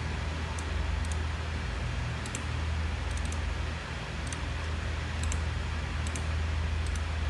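Scattered light clicks from working a computer, some single and some in quick runs of two or three, over a steady low hum and hiss.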